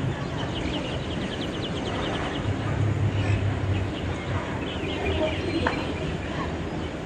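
Wild birds calling: a fast trill of short high notes for the first second or so, then scattered chirps, over a low steady rumble.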